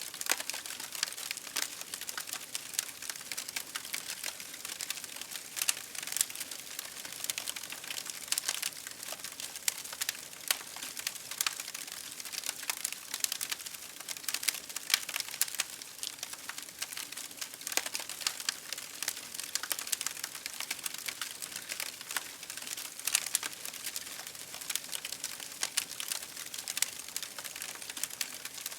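Campfire crackling steadily: dense, irregular snaps and pops of burning wood over a soft hiss, with a few louder pops scattered through.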